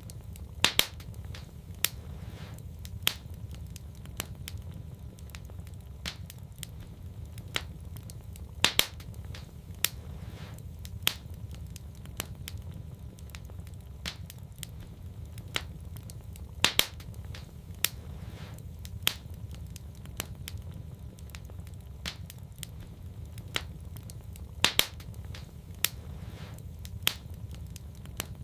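Wood fire in a fireplace crackling: irregular sharp pops and snaps, a few of them much louder, over a steady low rumble of the burning.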